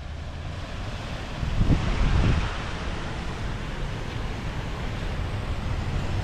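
Wind buffeting the microphone: a steady low rumble that swells louder for about a second, about two seconds in.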